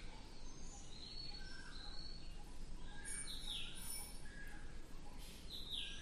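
Several songbirds chirping and calling with short whistled notes, and two louder downward-sweeping calls about three and five and a half seconds in, over a steady low outdoor background noise.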